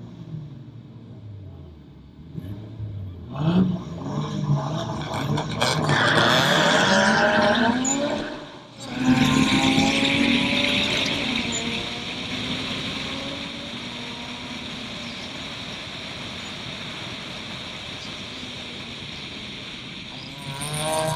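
Turbocharged Suzuki Swift race car engine accelerating hard from the start, its pitch climbing with revs. The sound dips sharply at a gear change about eight seconds in, then climbs again and settles into a steady high note at speed.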